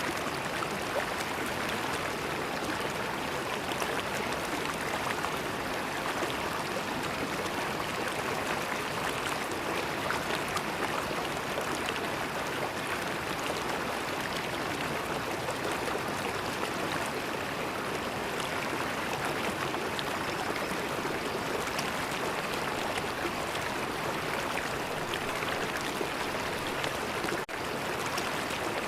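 River water flowing in a steady, even rush, with a momentary dip in level near the end.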